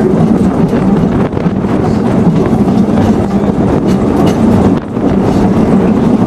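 Narrow-gauge railway train running: a loud, steady rumble with many scattered clicks and knocks.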